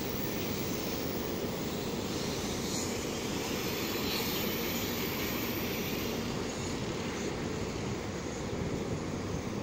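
Taiwan High Speed Rail 700T twelve-car train running with a steady rushing noise. A faint high whine swells up a few seconds in and fades again.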